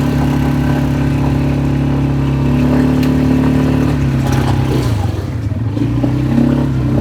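ATV engine running steadily at low speed, its note dropping about four seconds in as the quad slows down to park.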